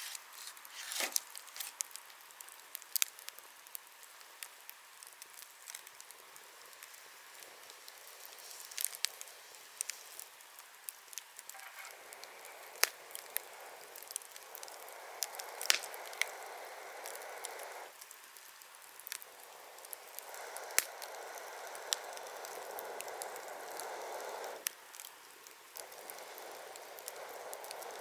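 Wood bonfire crackling, with scattered sharp pops, and stretches of steady hiss that come and go in the second half.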